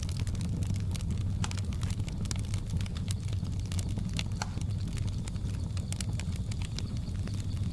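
Wood fire crackling: frequent small, sharp pops and snaps scattered irregularly over a steady low rumble of the burning fire.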